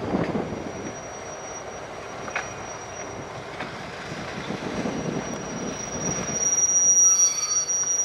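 Metra commuter train rolling past with its wheels squealing steadily against the rails, the squeal growing louder near the end, over a low rumble with occasional clicks from the track.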